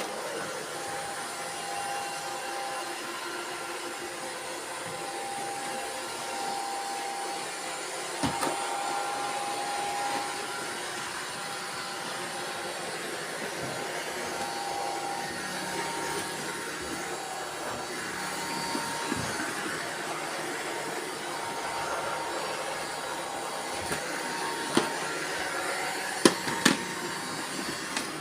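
Robot vacuum cleaners running, a steady whirring of motors and brushes. There are a few sharp knocks, one about eight seconds in and several close together near the end.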